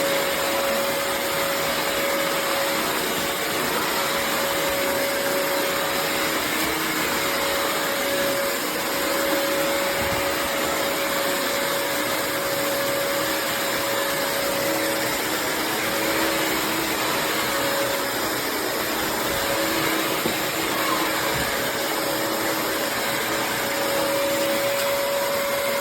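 Bissell CrossWave HydroSteam wet-dry floor vacuum running steadily while cleaning a dirty floor: a continuous rush of air with a steady whine that drops out and comes back several times partway through.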